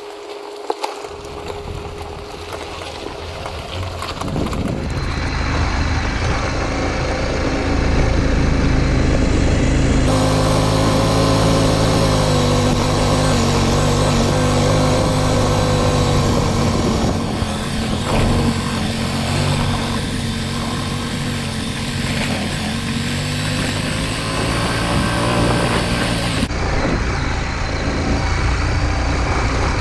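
Off-road vehicle engines running at low speed on a rough mountain trail, over a steady low rumble. The sound shifts abruptly several times.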